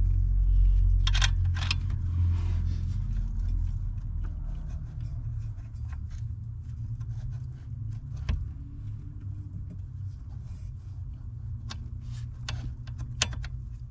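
Scattered light metallic clicks and clinks of hand tools and steering-column parts being handled, over a steady low rumble that is loudest in the first few seconds and then eases.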